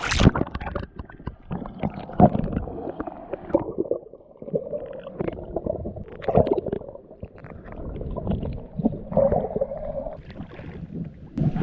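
Muffled underwater sound: a splash as the camera goes under, then gurgling water, bubbles and dull thumps from a swimmer moving underwater, with the sound opening up again near the end as it surfaces.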